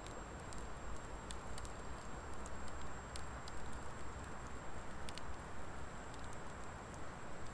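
Wood fire of driftwood and dry hardwood logs burning: scattered sharp crackles and pops over a steady rushing noise.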